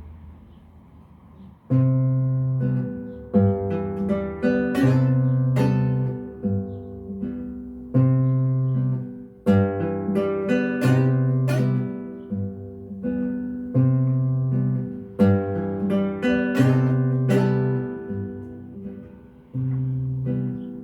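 Acoustic guitar music, plucked notes over a repeating bass line, starting about two seconds in after a low rumble.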